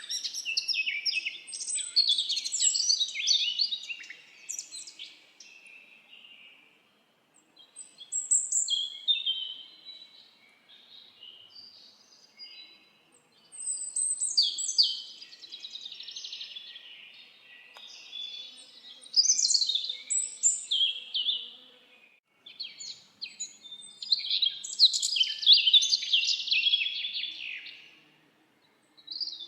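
Songbirds singing in a forest: quick, high, chattering song phrases in about five bursts of a few seconds each, with short pauses between.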